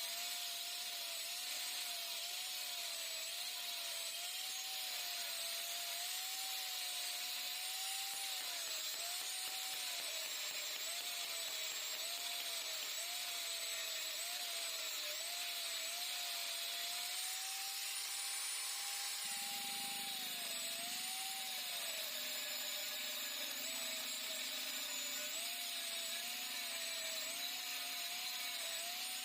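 Electric power tool motor running without a break under varying load: its whine keeps dipping and recovering as the tool bites into the metal of a Yamaha RX-King exhaust being bored out. It holds a level pitch briefly about two-thirds of the way through.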